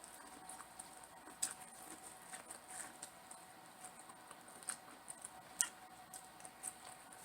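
Faint mouth sounds of someone eating, with scattered wet clicks and smacks of chewing at an uneven pace, the sharpest a little after one second in and around five seconds in.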